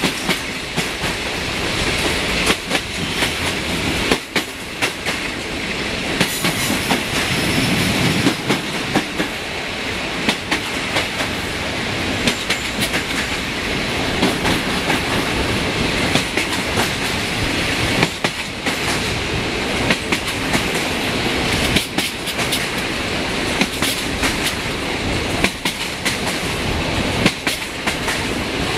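Passenger coaches of a train running at speed, heard from an open coach window: steady running noise and rushing air, with the wheels clicking irregularly over rail joints.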